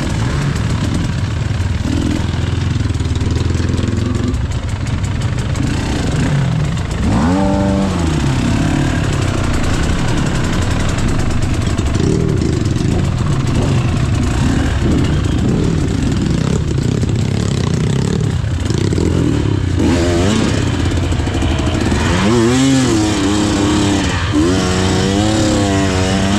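KTM EXC 300 two-stroke enduro engine running under load and revved up and down in short blips, with quick swells in pitch about seven seconds in and several more near the end.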